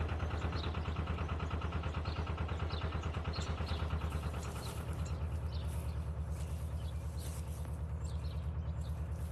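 Narrowboat diesel engine running at cruising speed with a steady chugging beat of several pulses a second, easing off a little towards the end. Birds chirp faintly over it in the first half.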